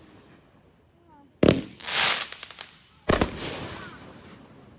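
Consumer fireworks going off: a sharp bang about a second and a half in, followed by a hissing crackle, then a second bang about three seconds in that fades away slowly.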